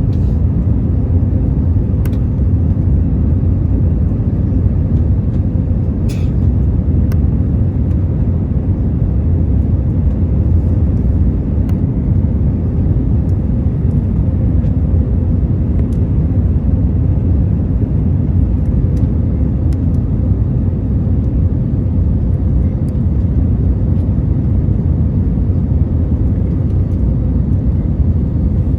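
Steady low rumble of engine and airflow noise inside the cabin of an Airbus A321 airliner, with a faint steady hum and a few light clicks.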